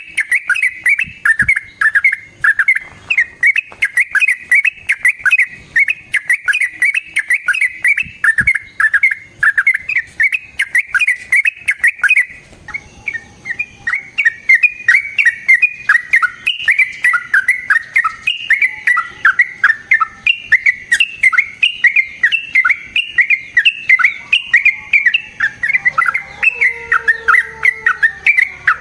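Yellow-vented bulbul (trucukan) singing a long, rolling run of rapid, repeated chirping notes. About halfway through the song breaks off briefly, then carries on.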